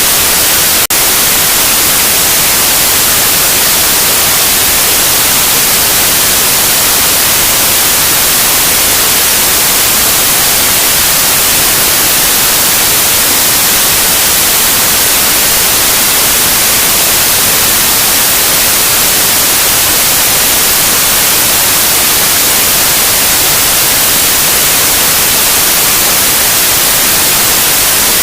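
Loud, steady white noise: an even, unchanging hiss across all pitches, with one faint tick about a second in.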